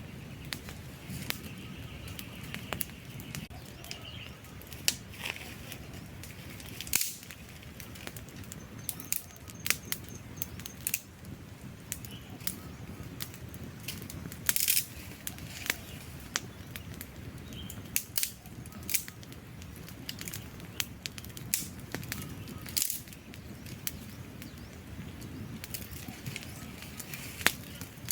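Wood campfire crackling: irregular sharp pops and snaps over a low, steady rush of burning flames.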